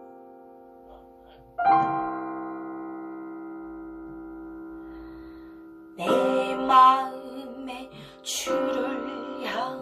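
Piano chords ringing and slowly fading, with a new chord struck about one and a half seconds in. About six seconds in, a solo voice starts singing the opening verse of a slow worship song over the piano.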